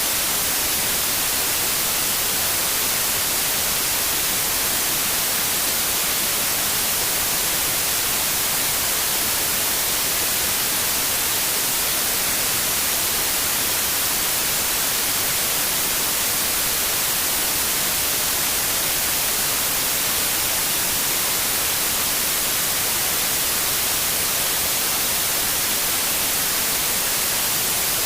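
Synthetic white noise: a steady, even hiss without any change, strongest in the high frequencies.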